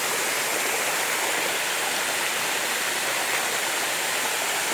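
Small waterfall splashing and rushing into a pool, a steady, even sound of falling water.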